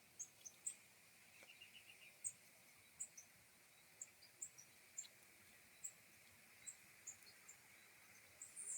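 Near silence: quiet open-air background with scattered faint, very short high-pitched chirps and, a little over a second in, a brief run of quick pulses.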